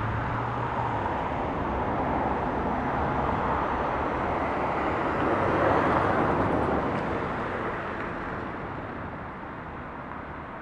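Regional train passing at a distance: a steady rush of wheel and track noise that swells to its loudest about six seconds in and then fades.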